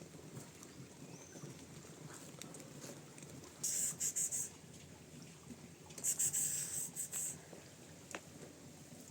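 Cats crunching dry cat food, in two spells of crisp crackling, about three and a half seconds in and again about six seconds in.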